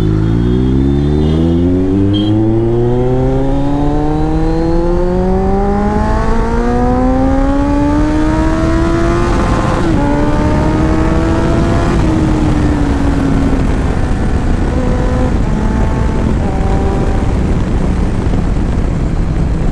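Motorcycle engine pulling up through the revs: its pitch climbs smoothly for about ten seconds, levels off, then eases slowly down.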